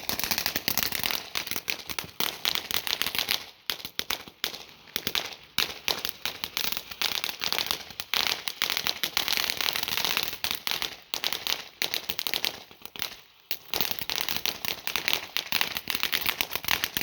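Firecrackers going off in a rapid, dense string of sharp pops and crackles. The string starts abruptly, keeps going with only a couple of brief lulls, and dies away near the end.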